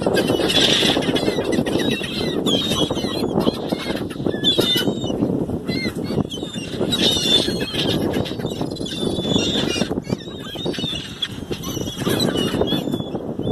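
A crowd of gulls calling over one another in short squawks, over a steady low rush of background noise.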